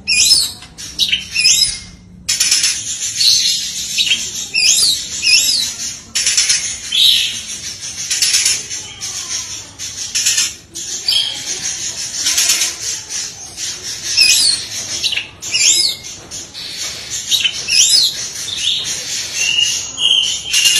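Oriental magpie-robin (kacer) singing a continuous, varied song of fast whistles and chattering notes, broken by repeated sharp sweeping phrases every second or two. This is a masteran training recording full of rapid-fire 'tembakan' notes and mimicked fill-ins.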